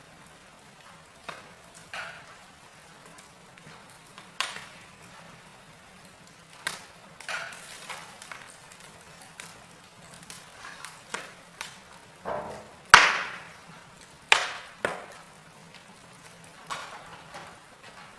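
Wood fire in a fireplace crackling: irregular sharp pops and snaps of burning logs, the loudest one about thirteen seconds in.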